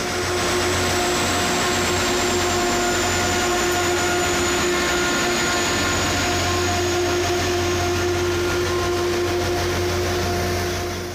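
Rail grinding train grinding the track: a loud, steady grinding hiss with a hum and a high whine that drifts slowly lower. It fades away at the very end.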